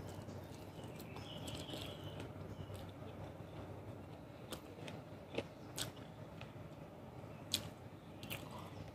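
A person chewing a mouthful of roast chicken thigh, faintly, with a few short wet clicks from the mouth in the second half.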